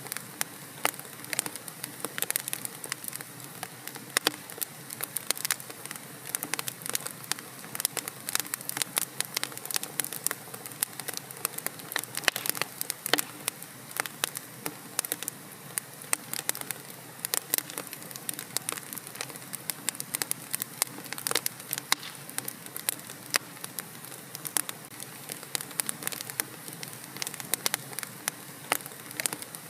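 Fire in a fireplace crackling: many irregular sharp pops and snaps over a steady hiss.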